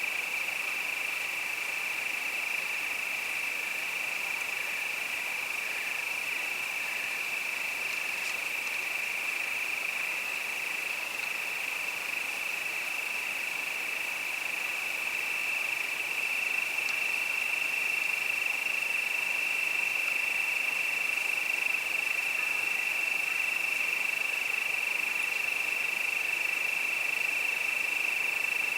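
Crickets singing in a steady chorus, one even high trill without breaks, over a faint hiss of open air. A fainter, higher-pitched trill joins a little past halfway.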